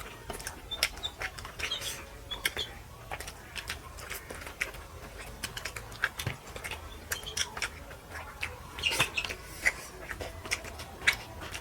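Close-up eating sounds: wet chewing and lip smacking as rice and fish curry are eaten by hand, with many small irregular clicks.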